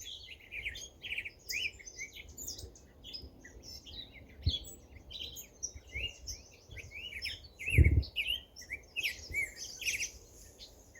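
Small songbirds chirping and twittering continuously in quick, overlapping high notes, over a low rumble, with two brief low thumps about midway and about three-quarters of the way through.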